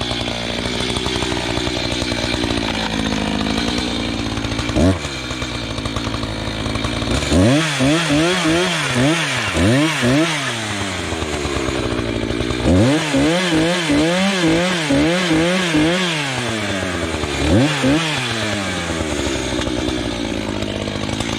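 A power saw cutting through a downed log: it runs steadily at first, gives one quick rev about five seconds in, then its motor pitch rises and falls over and over, about twice a second, as it bites into the wood, with a short break in the middle.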